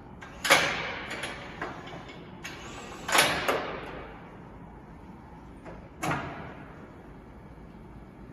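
Metal parts of a CAT 2ET4000 forklift banging: three loud clanks about three seconds apart, each ringing off briefly, with a few lighter knocks between them.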